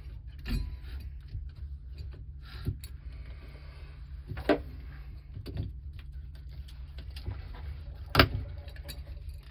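Hand work on the water heater's wiring and fittings: scattered clicks and knocks of parts and tools being handled, the loudest about eight seconds in, over a steady low hum.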